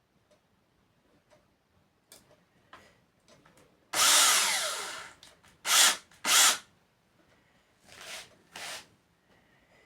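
Electric drill-driver run in short bursts. The first run, about four seconds in, lasts over a second and drops in pitch as it winds down. Two quick loud bursts follow, then two fainter ones near the end.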